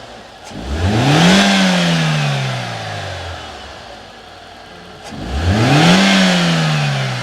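Toyota Corolla XLi engine revved twice. Each time the pitch climbs quickly to a peak, then falls back slowly toward idle. The second rev comes about four and a half seconds after the first.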